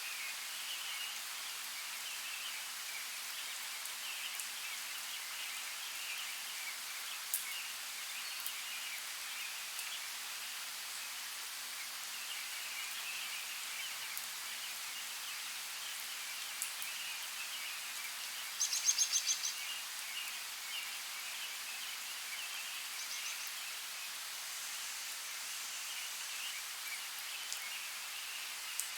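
Forest ambience: a steady hiss of running creek water under a constant chatter of faint chirps. A short, rapid bird trill breaks in about two-thirds of the way through, and there are a few scattered clicks.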